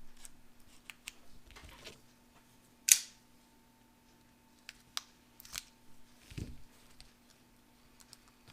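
Scattered small clicks and crinkles of an old candy-tablet packet being handled and worked open, with one sharp crackle about three seconds in and a soft low thump a few seconds later.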